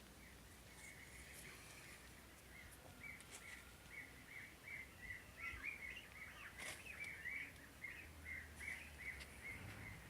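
Faint series of short high chirps from a bird, repeated at about three a second and loudest around the middle, with a few soft clicks.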